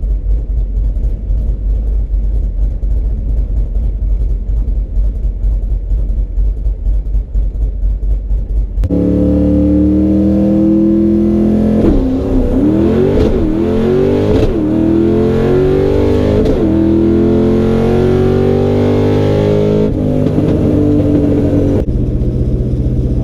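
Fox-body Mustang 5.0 V8 with a lumpy, choppy idle. About nine seconds in it cuts to the engine at full throttle, its pitch climbing and dropping back at each gear shift of a run through the gears. Near the end it drops abruptly to a lower, steady running note.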